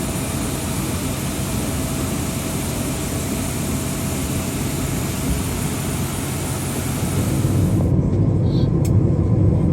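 Steady engine noise with a faint high whine. About eight seconds in it changes abruptly to a louder, deeper engine rumble.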